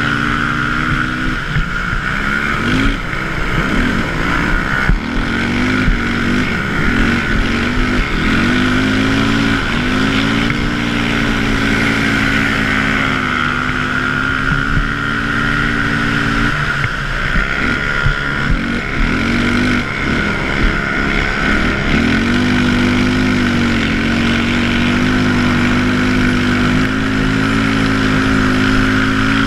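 Racing ATV engine at high revs, held steady for stretches and then dropping and climbing back in repeated swings twice, as the throttle is cut and reopened through turns.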